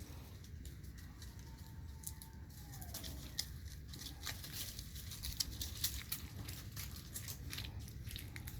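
Irregular crunching and crackling clicks, thickest from about three seconds in, with a faint falling whistle about two seconds in.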